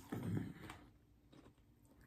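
Faint close-miked eating sounds: chewing and mouth noises, with one short low thump just after the start.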